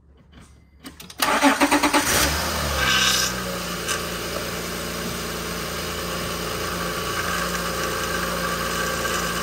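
2006 Honda Pilot's 3.5-litre V6 engine cranked by the starter for about a second, catching, briefly flaring up in revs, then settling into a steady idle.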